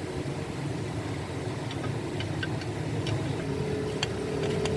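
Truck diesel engine idling steadily, with a few light clicks over it.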